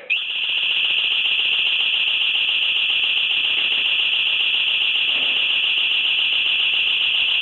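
Home security alarm siren sounding a loud, steady, high-pitched electronic tone, set off by a glass-break sensor.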